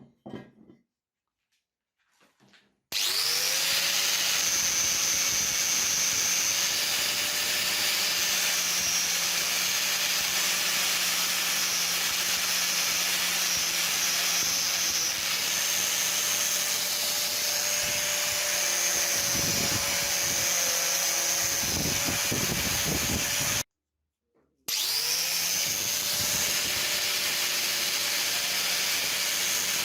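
Electric power tool motor starting with a short rising whine, then running steadily at full speed with a hissing, rubbing noise. It cuts off suddenly near the end and starts up again a second later.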